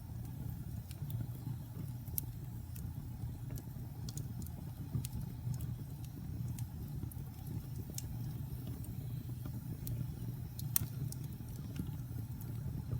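Fire burning in a fireplace: a steady low rumble of flames with scattered sharp crackles and pops, a louder pop about two seconds in and another near the end.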